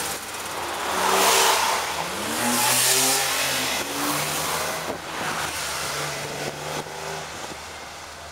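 Porsche 911 flat-six engines accelerating away one after another, the engine note climbing in pitch through the revs. The loudest pulls come about a second in and again around three seconds. A steadier, quieter engine note follows in the second half.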